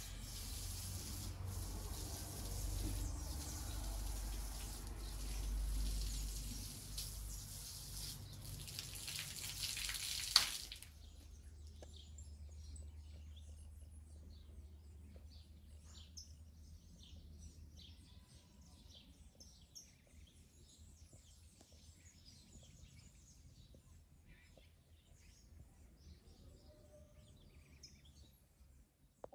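Faint outdoor ambience of small birds chirping. A steady hiss carries it at first and cuts off abruptly with a click about a third of the way in; after that the chirps thin out and the sound fades to near silence.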